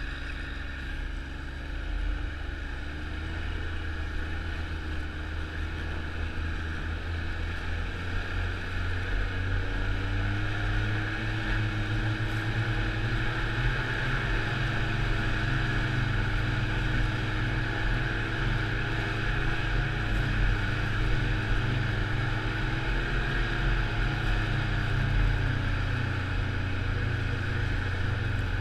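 Snowmobile engine running under way, its pitch rising a little about a third of the way in, holding, then easing off near the end, over a steady hiss.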